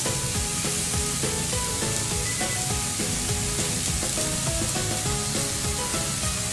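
Food sizzling in a hot pan: a steady frying hiss, with background music of short melodic notes over it.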